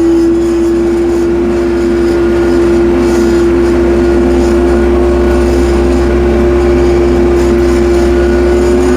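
Tractor running steadily while driving, with a strong steady whine that creeps slightly higher in pitch and a low rumble underneath.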